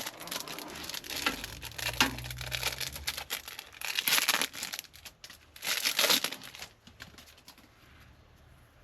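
Packaging crinkling and rustling as it is handled, in bursts, loudest about four and six seconds in, then dying down near the end.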